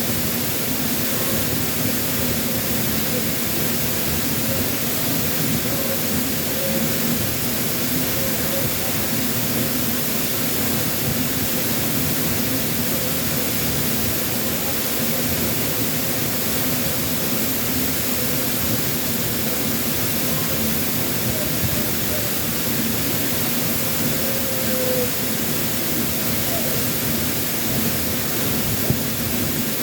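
Waterfall pouring with a steady, even rush of falling water.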